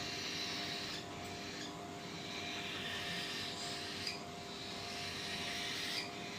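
A spoon stirring and scraping thick baby-bird formula in a small cup, in repeated raspy strokes about a second or so apart, with light clicks between them, over a faint steady hum.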